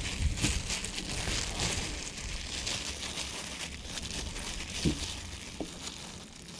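Plastic bag rustling and crinkling as it is handled, with a couple of small knocks about five seconds in.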